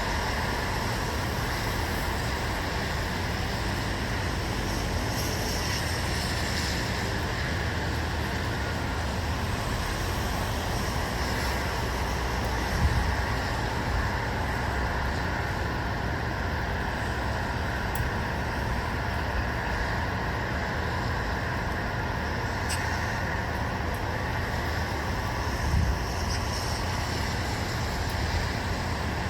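Steady outdoor ambience of distant road traffic, a constant hum and rush, with brief low thumps about halfway through and again near the end.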